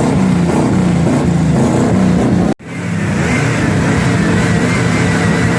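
Car engines revving together at a car meet. The sound cuts off abruptly about two and a half seconds in, and a steadier running sound follows.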